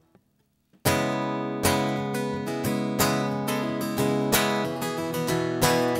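Acoustic guitar being strummed, starting about a second in after a brief near silence; firm chords with regular, accented strokes as a song's instrumental intro begins.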